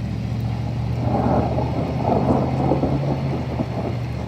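Rolling thunder rumbling after a nearby lightning flash, swelling about a second in and fading over the next few seconds, over a steady low hum.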